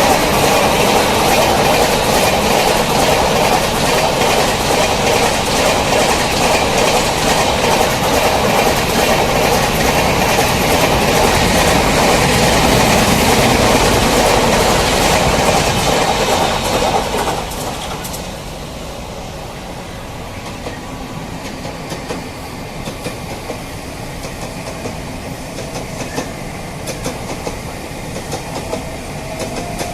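Train passing close at speed: a steady wheel-and-track rumble with clickety-clack over the rail joints. It drops sharply in loudness about 17 seconds in, after which lighter clicks of wheels over the joints carry on.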